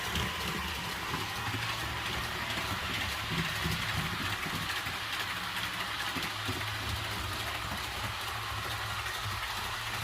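REE TGV model train running on its track with a steady hum, its ESU sound decoder playing a TGV running sound through the onboard speaker.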